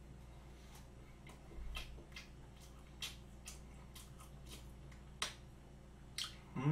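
Close mouth sounds of someone chewing a mouthful of soft chocolate cream cake: faint, scattered wet clicks and smacks, a few louder than the rest.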